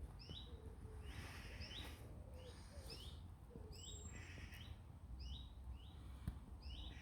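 A songbird repeating a short two-note call, a higher note then a lower hooked one, about twice a second, over a faint low rumble.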